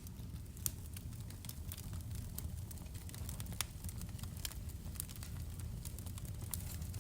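Wood fire burning in a fireplace: a steady low rumble of flames with frequent sharp crackles and pops, two louder pops about a second in and a little past halfway.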